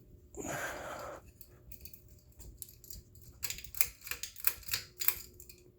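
Ceiling fan just switched to high, with a faint steady hum under a run of quick, irregular clicks and rattles that grow louder past the middle. A short rush of noise comes near the start.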